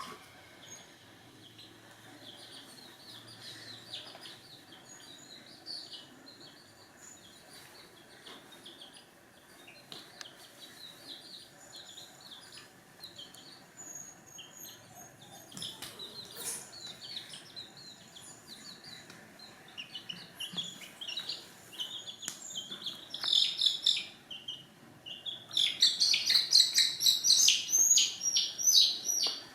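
Birds chirping: many short, high calls, sparse and faint at first, then much louder and denser in busy flurries over the last few seconds.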